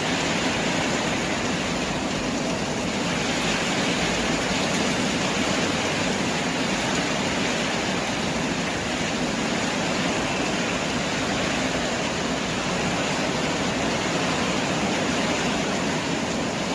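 Heavy rain with wind, a steady dense hiss of falling rain.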